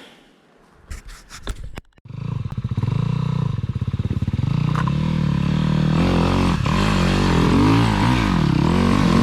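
A dirt bike engine starts running about two seconds in and is then revved up and down again and again, its pitch rising and falling with the throttle as the bike works through the section.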